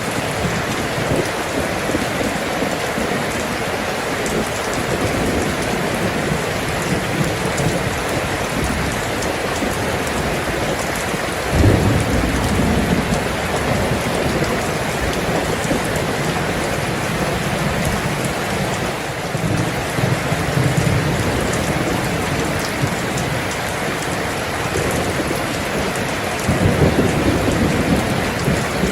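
Steady heavy rain hissing evenly. Deep low rumbles swell up about a third of the way in, again past the middle and near the end.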